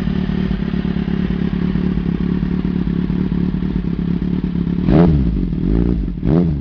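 Kawasaki Z750's inline-four engine idling through an aftermarket Arrow exhaust, then given three quick throttle blips near the end, each revving up and dropping straight back to idle.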